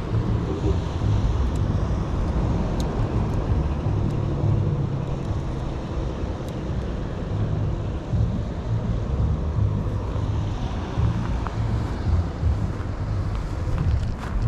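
Wind buffeting the microphone: a steady, gusting low rumble, with a few faint clicks.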